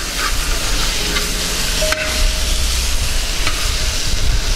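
Chicken and onion-tomato masala sizzling in an iron kadai as a metal ladle stirs it, with a few sharp taps and scrapes of the ladle against the pan.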